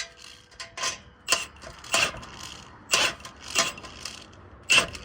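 Ratchet wrench clicking in a run of short strokes, tightening the bolts of an exhaust clamp; about seven bursts of metallic ratcheting, every half second to a second.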